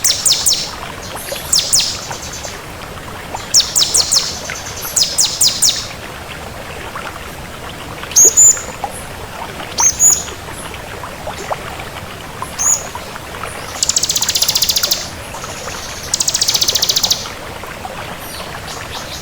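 Ciblek kristal (bar-winged prinia) singing loudly. The song runs through clusters of sharp, high falling notes, then a few single rising notes spaced about two seconds apart, then two fast buzzy trills in the last third.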